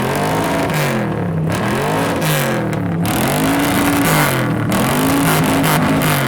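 1964 Dodge D100 pickup's V8 revved hard again and again through its side-exit exhaust, the engine climbing and dropping about once a second.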